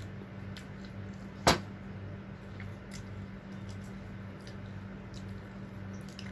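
Quiet eating sounds at a meal: faint small clicks and soft squishes, with one sharp knock about a second and a half in, over a steady low hum.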